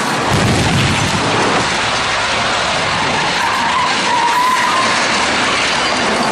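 Fast freeway traffic rushing past, with a brief high squeal, typical of skidding tyres, about four seconds in.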